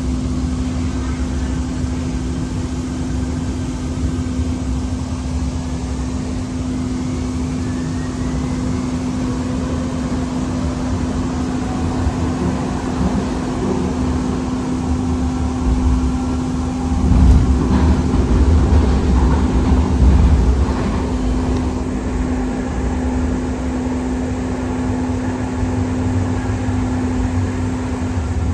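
Siemens S200 light rail vehicle running on the track: a steady hum over a low rumble, with a faint gliding whine early on and the rumble growing louder for a few seconds past the middle.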